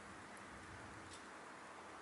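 Wood fire burning in a Solo Stove Titan: a faint, steady rush of flame with a couple of small crackling ticks.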